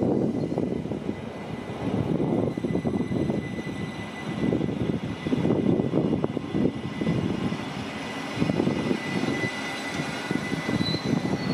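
Rhaetian Railway coaches being shunted by an ABe 8/12 Allegra electric railcar, rolling slowly past on metre-gauge track: a steady rumble of wheels on rail with irregular clatter and a faint thin high whine that grows a little near the end.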